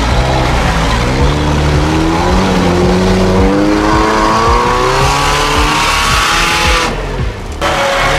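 Off-road 4x4's engine revving hard under load, its pitch climbing steadily for several seconds. It dips briefly about seven seconds in, then runs on at a steadier pitch.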